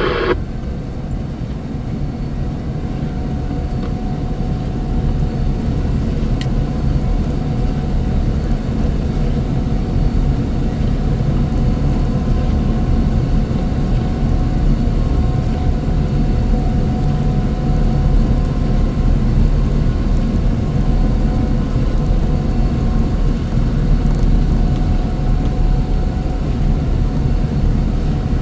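Heavy snow-removal machine's engine running steadily: a deep, continuous drone with a faint steady whine above it.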